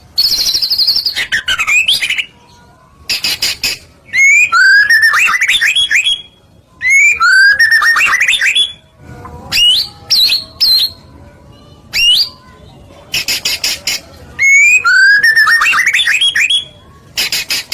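White-rumped shama (murai batu) singing loudly in repeated phrases. Fast rattling trills alternate with runs of rising whistled notes, the pattern coming round about every four seconds.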